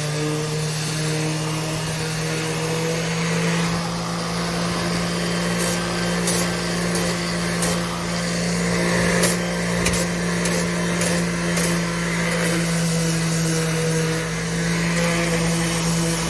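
Electric sander running steadily on the wooden cabinet base: a constant motor hum under the sanding noise, with a few sharp clicks through the middle.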